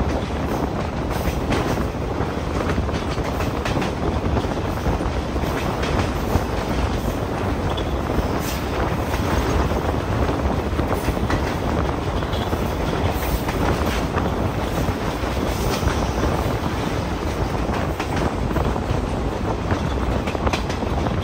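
Express passenger train running at speed, heard from on board: a steady rumble of wheels on rails with faint clicks as the wheels pass over rail joints.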